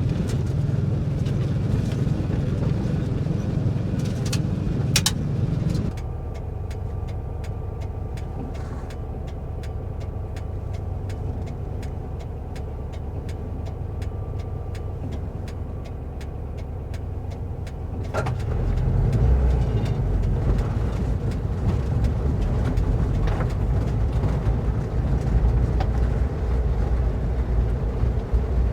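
VW bus driving on a rough dirt trail: steady engine running with the low rumble of the vehicle over the ground. The sound drops suddenly to a quieter stretch with a steady engine tone and a fast patter of small clicks, then comes back louder about two-thirds of the way through.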